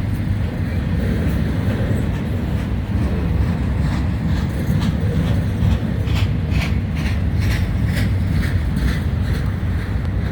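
Freight train rolling past at close range, its auto rack cars giving a steady low rumble. From about the middle on, a run of wheel clicks over the rail joints.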